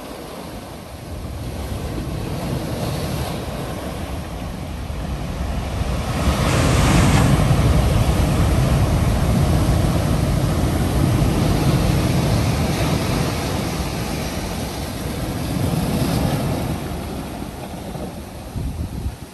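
Ocean surf breaking on the shore: a steady wash of noise that swells into a loud crash about six seconds in, then slowly recedes.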